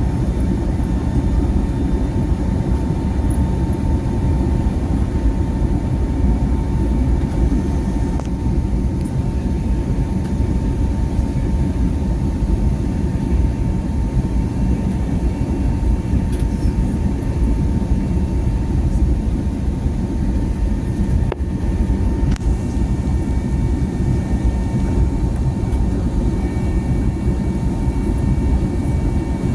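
Airbus A320neo's jet engines and airflow heard from inside the cabin as a steady, loud low rumble, with a faint steady whine held over it.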